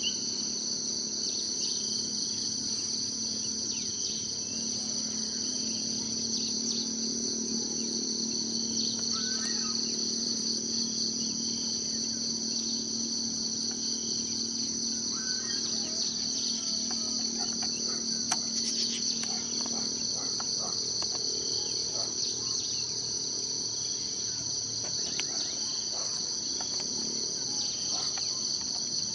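Insect chorus, crickets or cicadas, trilling steadily in a high, unbroken drone. A few faint, brief bird calls are scattered through it, and a low hum underneath fades out about twenty seconds in.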